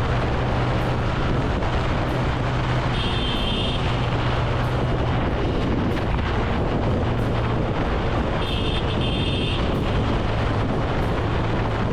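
Motorcycle running steadily on the road, engine drone mixed with heavy wind rush on the camera microphone. Two short high-pitched beeps sound, about three seconds in and again near nine seconds.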